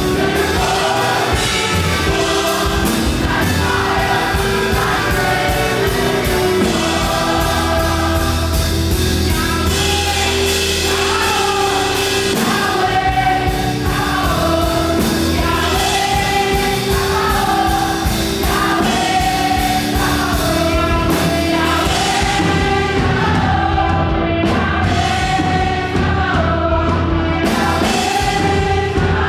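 Live fast gospel worship music: a group of singers over a full band with a steady driving beat.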